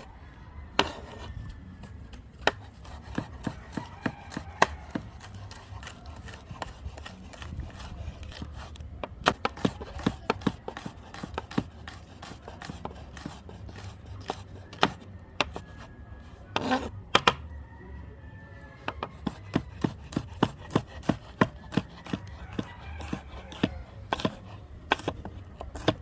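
Knife chopping on a cutting board: sharp, separate strokes at an uneven pace, with quick runs of several strokes a second, as seasoning vegetables are cut up.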